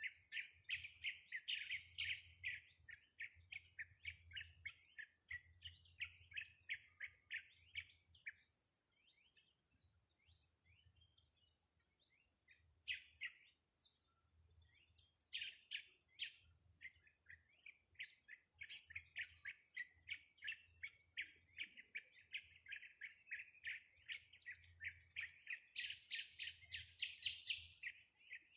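Bird chirping in fast runs of short repeated notes, about four a second, with a lull of several seconds in the middle.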